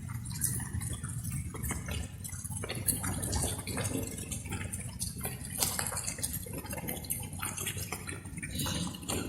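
Water drops falling and dripping irregularly, many sharp drips a second, over a steady low rumble.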